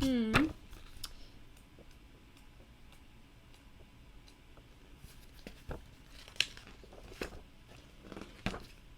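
Plastic model-kit parts and packaging being handled while searching for a piece: mostly quiet, with a few sharp clicks and crinkles in the second half.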